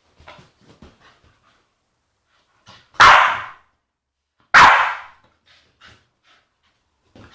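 Staffordshire bull terrier barking twice, loud, about a second and a half apart, with a few faint short sounds before the barks.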